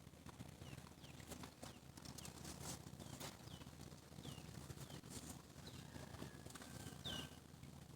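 Faint bird chirps: short, falling high notes repeated irregularly, about one every second, over a low steady hum.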